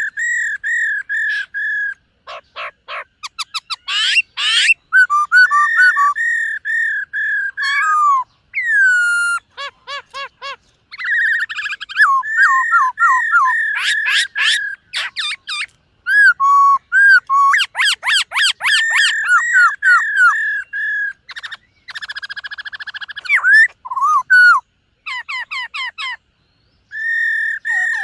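Black-throated laughingthrush singing: a varied run of loud, clear whistles, with strings of quickly repeated notes, fast trills and swooping slurred phrases, broken by short pauses.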